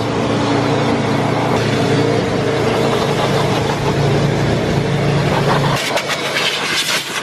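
A blower running steadily, blasting snow out of a car's engine bay. Its sound changes about six seconds in, the low hum dropping away and a hissier rush taking over.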